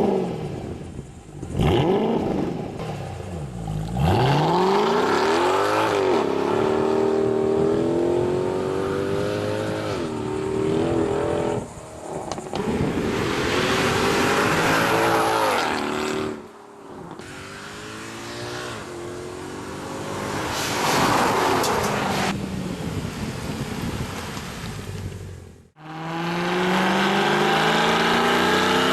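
Mercedes-Benz CLK63 AMG Black Series' 6.2-litre V8 through a RENNtech performance exhaust, revving and accelerating hard, its pitch repeatedly climbing and falling through gear changes and passes. The sound cuts off abruptly twice between shots, and near the end settles into a steadier running note.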